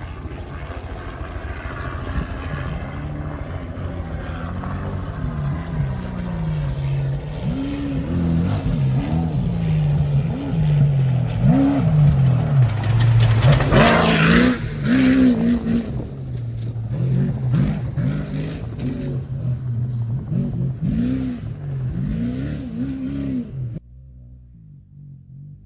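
An off-road Trophy Truck's engine racing past, the revs rising and falling again and again as the driver works the throttle over rough ground. It gets louder to a close pass about halfway through, with a brief rushing hiss of wind and dirt, then fades and drops off sharply near the end.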